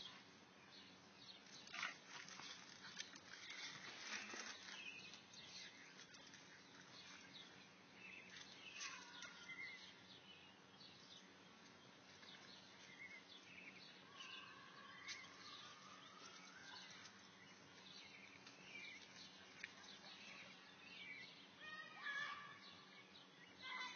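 Faint outdoor ambience with scattered bird chirps and short gliding calls, and a few soft knocks.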